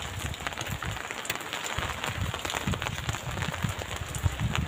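Steady rain falling on a wet concrete rooftop terrace and its potted plants, with many sharp drop hits, and low rumbling bursts coming and going throughout.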